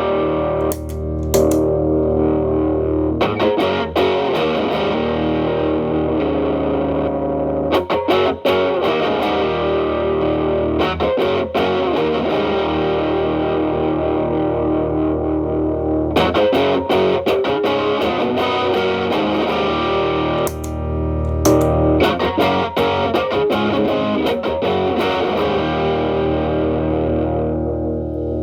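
Fender Telecaster played through a Xotic BB overdrive pedal into a Marshall Valvestate amp's clean channel, with the pedal's gain at about noon. The guitar plays mildly overdriven chords and riffs, and the last chord rings and fades out near the end.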